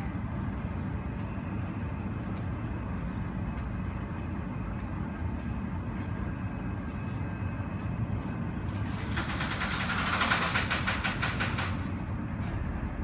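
Steady low rumble of airport apron noise and distant jet airliners. About nine seconds in, a rapid rattling clatter of evenly spaced clicks rises, peaks and stops within about three seconds.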